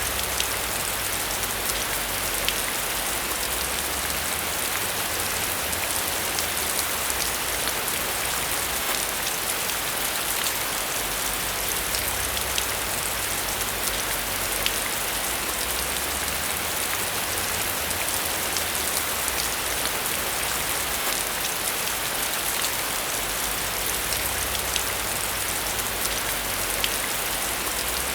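Steady rain falling, an even hiss with many small drop ticks, over a faint low rumble.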